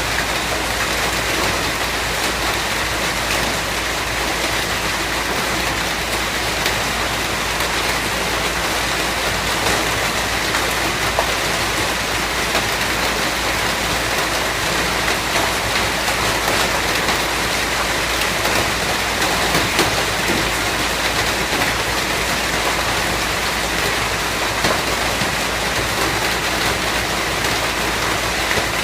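Steady rain falling: an even, unbroken hiss with the patter of scattered drops.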